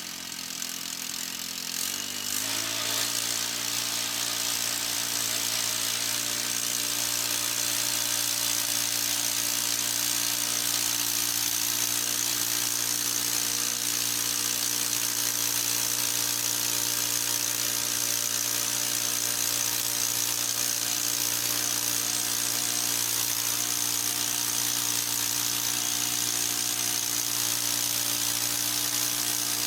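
Harbor Freight sawmill's small gasoline engine just after starting, rising in speed over the first couple of seconds and then running steadily.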